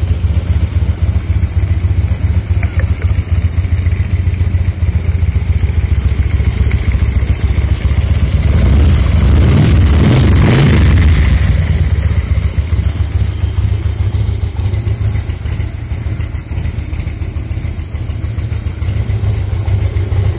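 Harley-Davidson Twin Cam 88 V-twin idling with a steady, loping beat while warming up after a cold start. About eight seconds in, the engine speed rises for a few seconds, then settles back to idle.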